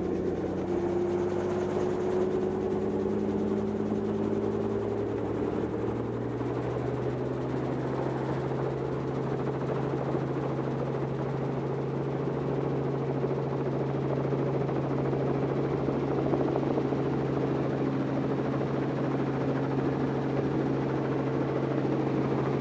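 Helicopter engine and rotor heard from inside the cabin, rising in pitch over the first several seconds as it spools up, then running steady.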